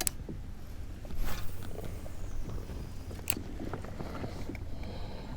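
Low wind rumble on the microphone with scattered crackles and a few sharp clicks, one right at the start and another about three seconds in.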